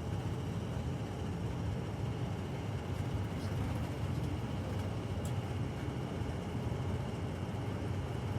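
Steady low rumble of a vehicle running, heard from inside the cab.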